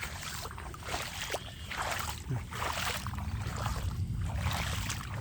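Footsteps sloshing through shallow floodwater, about one step a second, over a low rumble of wind on the microphone.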